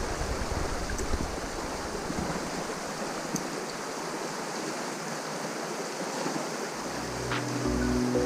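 Steady rushing of river water. Background music comes in near the end.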